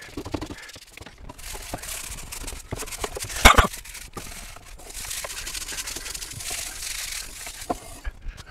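An aerosol cleaner spraying in two long hissing bursts, with a sharp knock between them.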